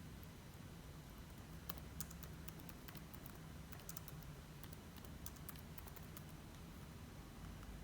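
Faint, scattered keystrokes of typing on a computer keyboard, in irregular little clusters that stop about six seconds in, over a low steady hum.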